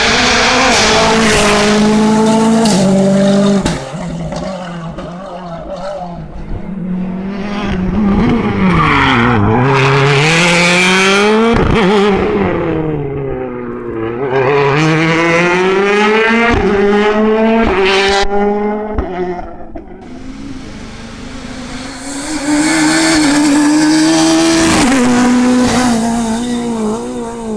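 Rally cars driven hard on a stage, engines revving high and dropping sharply through gear changes and lifts. Four loud passes, with quieter gaps between them.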